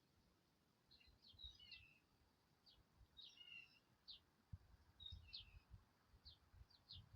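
Faint small birds chirping: scattered short, high chirps and quick little trills, several in each second or two, with a faint low rumble underneath in the second half.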